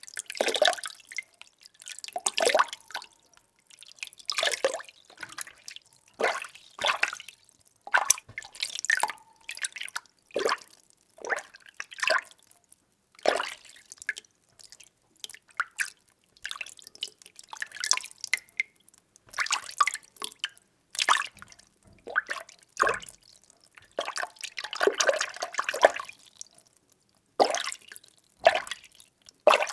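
Water being stirred by hand or with an implement in a small container: irregular sloshing and splashing strokes, roughly one a second, with short pauses between.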